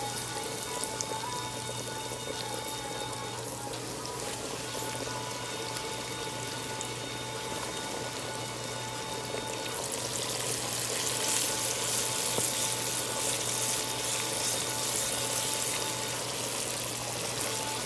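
Pork ribs deep-frying in hot oil, a steady sizzle that grows louder about ten seconds in. Background music with held notes plays underneath.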